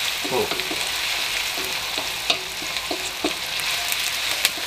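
Chopped onion sizzling in hot oil in a wok while being stir-fried with a wooden spatula that scrapes across the pan. There are two sharper knocks, about halfway and near the end.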